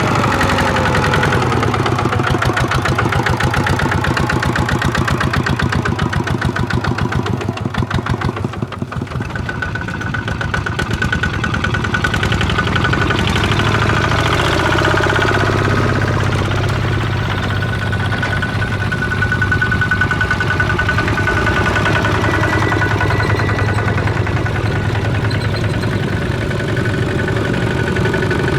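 Tractor engine running steadily with rapid, even firing pulses. The sound eases off briefly about a third of the way in, and a steady high whine runs alongside the engine after that.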